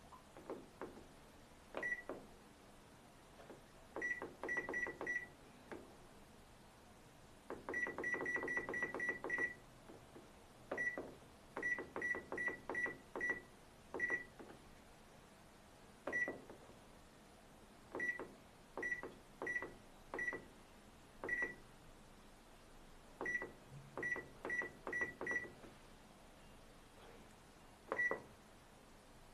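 Washing machine control-panel buttons being pressed, each press giving a click and a short electronic beep, all on the same high pitch. Some presses come singly and some in quick runs of several, as the programme and spin settings are stepped through.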